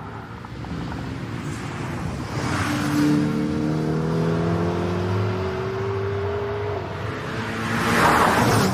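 Racing car engine accelerating, its pitch climbing steadily through a gear, with a loud rush of noise as a car passes about two and a half seconds in and again near the end.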